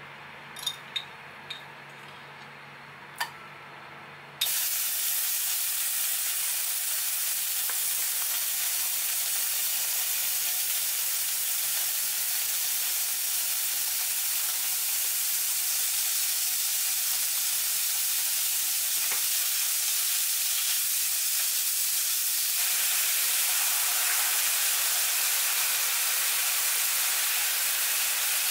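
Minced garlic and then diced pork sizzling as they fry in a hot nonstick pan. A few light clicks of jar and spoon come first, then about four seconds in a loud steady sizzle starts suddenly and keeps going.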